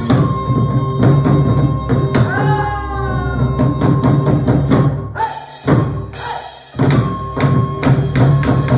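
Korean traditional ensemble music led by sori-buk barrel drums and percussion playing dense strokes, with a sliding melodic line about two seconds in and a brief thinning of the texture about five seconds in before the drums come back in full.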